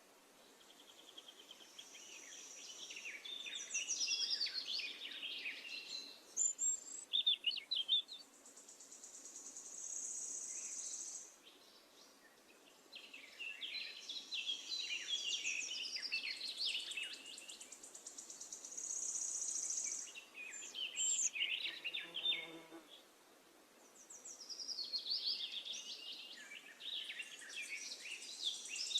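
Birds singing in bursts of chirps and warbles, with a high, steady trill coming and going between them.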